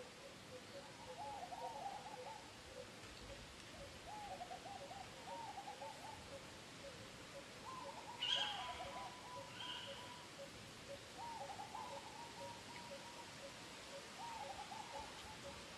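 Birds calling: short warbling, hooting phrases repeat every couple of seconds over a steady pulsing lower note. One louder, sharper call comes about eight seconds in.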